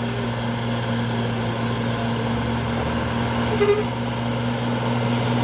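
Truck diesel engine running steadily under load as it tries to climb a muddy slope, a strong, even low drone. A brief higher-pitched tone cuts in about three and a half seconds in.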